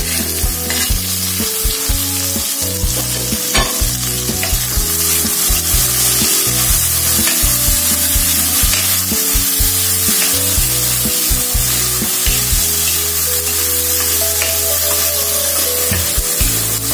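Chopped red chilies and tomatoes dropping into hot oil in a wok and sizzling loudly, stirred with a spatula. The sizzle jumps up at the start as the vegetables hit the oil and stays strong, with occasional sharp ticks from the spatula on the pan.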